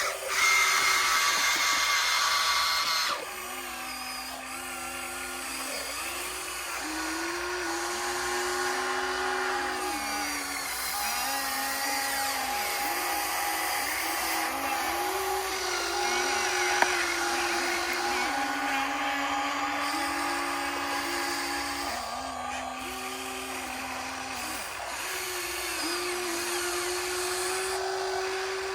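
RC excavator's hydraulic pump motor whining, its pitch stepping up and down again and again as the load changes. It is louder for the first three seconds.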